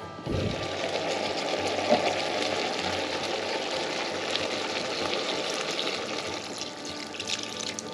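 Water running steadily from a tap, switched on abruptly just after the start.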